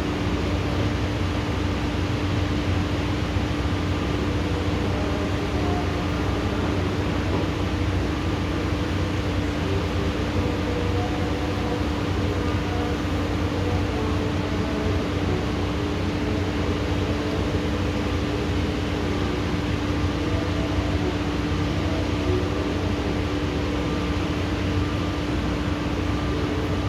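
Steady, unbroken rain noise of a thunderstorm downpour, with a constant machine hum holding one steady tone underneath. No thunderclap or other sudden sound.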